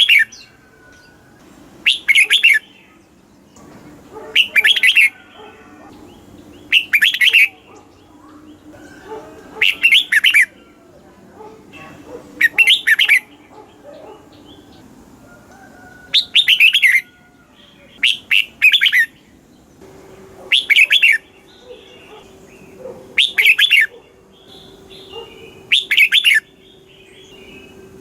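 Red-whiskered bulbul singing: short, bright, warbled phrases of about half a second each, repeated about every two and a half seconds.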